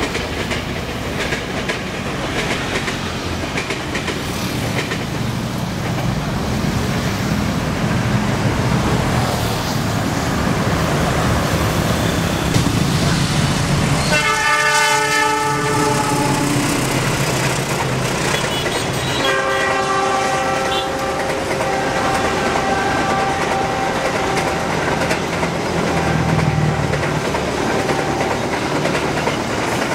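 Passing trains rumbling and clattering over the rails: first a KRL Commuter Line electric train, then a CC 206 diesel-electric locomotive and its passenger coaches. The locomotive's horn sounds about halfway through in a blast of a couple of seconds, then again about five seconds later in a longer call that fades out near the end.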